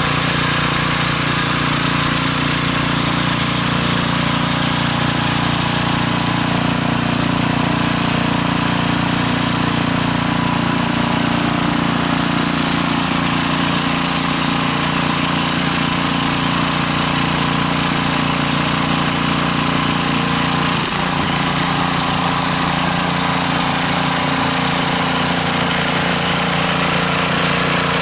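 Snowblower engine running steadily under load, with a brief dip in its sound about three-quarters of the way through.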